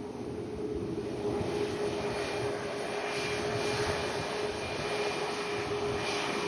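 Boeing 737-8 MAX jet airliner's CFM LEAP-1B turbofan engines running as it lands, growing louder about a second in and then holding steady, with a steady humming tone through the engine noise.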